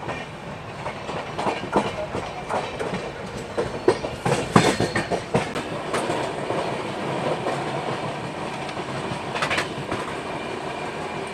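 Passenger train coach running along the track, its wheels clattering over rail joints with a steady rumble. A run of sharp clacks comes between about one and a half and six seconds in, loudest near the middle, and one more comes a few seconds later.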